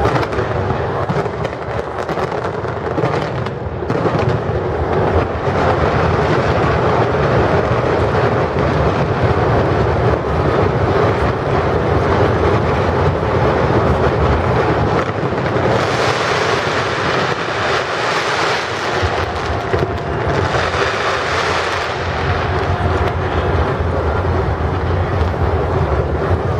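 Fireworks fired from a skyscraper, heard at close range: a dense, unbroken barrage of crackling and bursts. The crackle grows louder and hissier in two surges about two-thirds of the way in.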